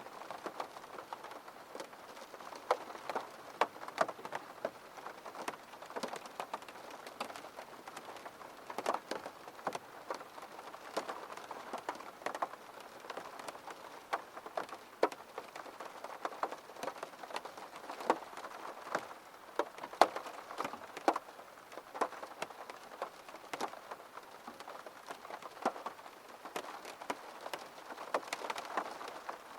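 Rain falling against a window: a steady wash of rain with many separate drops striking the glass at irregular moments, a few of them sharper and louder.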